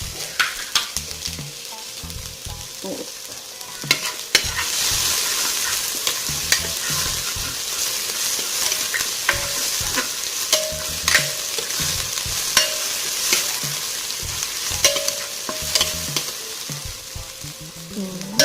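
Garlic and onion sizzling in hot cooking oil while being stirred, with irregular clicks and scrapes of a utensil against the pan. The sizzle grows louder about four seconds in.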